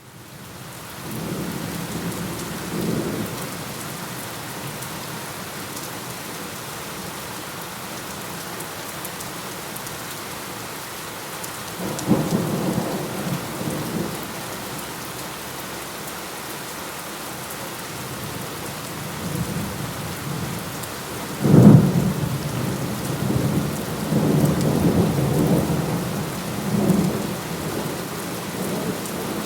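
Steady rain with rolling thunder, fading in over the first second. A low rumble comes near the start and another about twelve seconds in. The loudest moment is a sharp thunderclap about twenty-one seconds in, followed by several seconds of rumbling.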